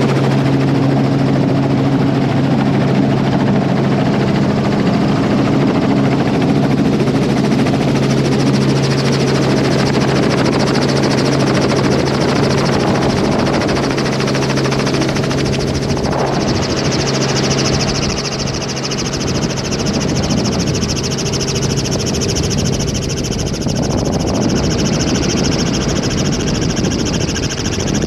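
Helicopter engine and rotor running steadily and loudly. A few steady low hums fade out over the first half, and a brighter hiss comes up about two-thirds of the way through.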